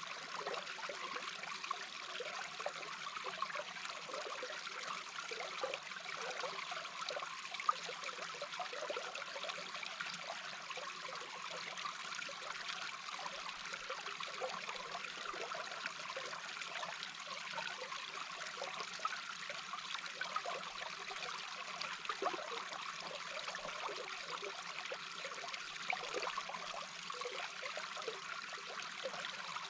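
Small brook's flowing water heard from underwater: a steady rush with constant fine bubbling, and one brief louder pop about eight seconds in.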